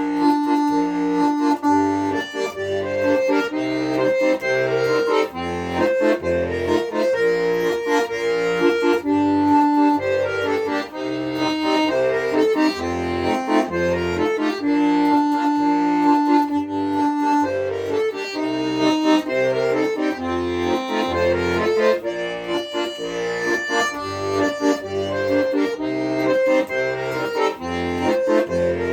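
Accordion playing an instrumental passage of a song: a melody with held chords over a regular pulsing bass.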